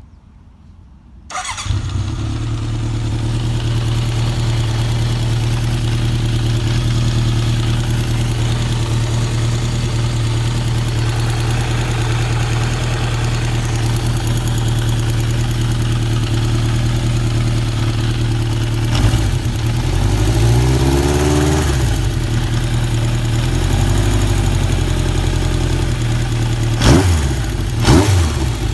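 1982 Honda CB900F Super Sport's air-cooled inline-four engine fires up about a second in and idles steadily. It is blipped a few times later on, with two quick revs near the end. It carries a ticking that the owner thinks sounds like the cams, which have never been adjusted.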